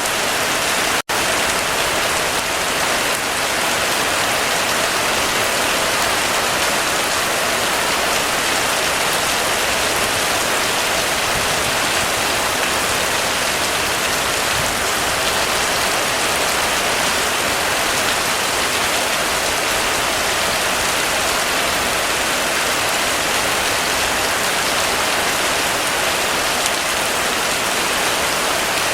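Heavy rain falling steadily, a dense even hiss, with a split-second dropout about a second in.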